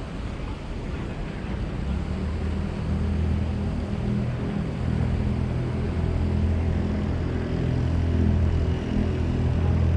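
A low, steady engine hum that comes in about two seconds in and grows gradually louder, as of a vehicle approaching.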